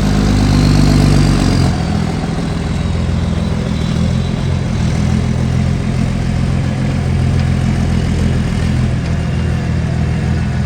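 Truck's inline six-cylinder engine running: it is raised a little for the first second or so, then settles to a steady, evenly pulsing idle. The engine has a manifold leak.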